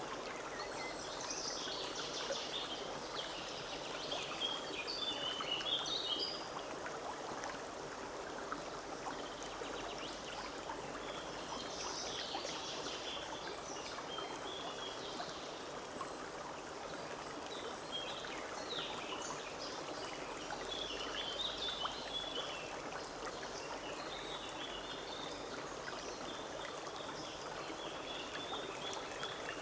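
Forest stream running steadily over stones, with small songbirds chirping above it in bouts, busiest in the first few seconds and again midway and near the end.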